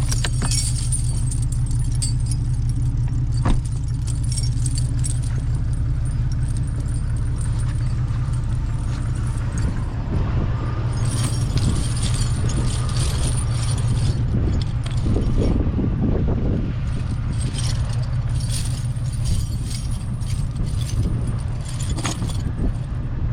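Metal tire chains clinking and rattling as they are handled, thickest from about ten seconds in, over a truck engine idling steadily.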